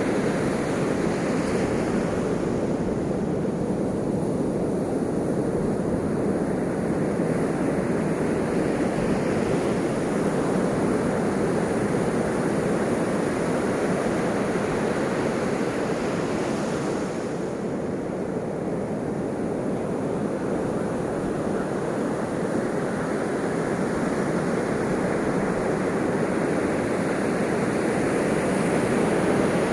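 Ocean waves washing onto a shore: a continuous rushing surf that swells as waves break, about a second in and again around the middle, then eases off a little.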